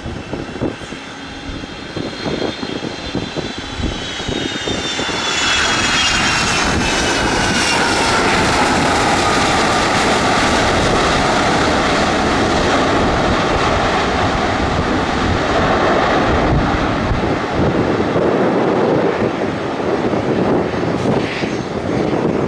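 Fixed-wing aircraft passing close by. Its engine noise builds over the first few seconds while a high whine slides down in pitch as it goes past. Then comes a loud, steady rush of engine noise.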